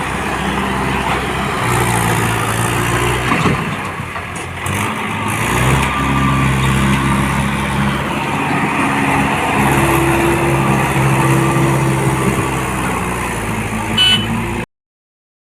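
Tractor diesel engines running hard under load, their pitch dropping and rising as they labour. A short high tone sounds near the end, then the sound cuts out for about a second.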